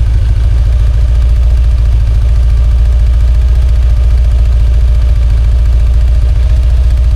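Kawasaki ZZR1100's inline four-cylinder engine idling steadily with a fast, even pulse. This is the motorcycle's second, swapped-in engine, the one that is blowing white smoke on start-up.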